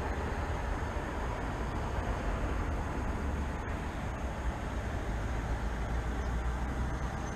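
Steady city background of road traffic: a continuous low rumble with an even wash of noise and no distinct events.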